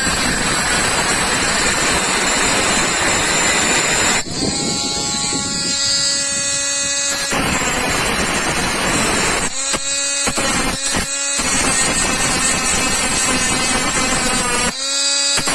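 Mini grinder cutting into a wood screw: a harsh grinding noise three times, several seconds each, with the motor's steady high whine heard alone in between as the disc runs free.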